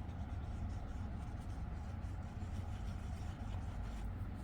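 Glue being rubbed onto the paper of a handmade card: faint, uneven rubbing and scraping over a steady low hum.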